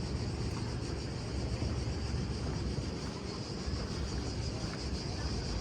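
Steady outdoor background noise: a low rumble with a faint, even high-pitched hiss above it.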